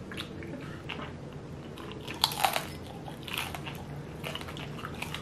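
Close-miked eating of dumplings: chewing and biting, with small wet clicks and a louder burst a little over two seconds in.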